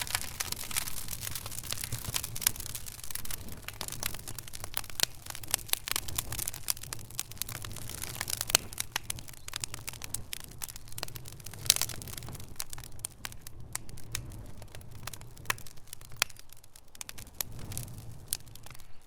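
Wood fire in a fireplace crackling, with many irregular sharp pops and snaps of burning wood over a low steady rumble of the flames. One pop, about twelve seconds in, is louder than the rest.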